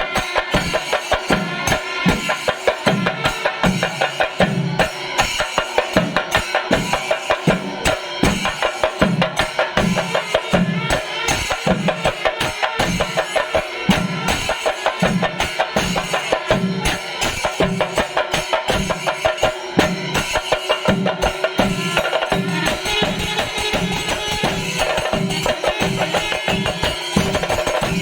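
Kerala temple percussion ensemble playing a steady festival rhythm: many fast drum strokes over a deeper beat about twice a second, with ringing metal cymbals.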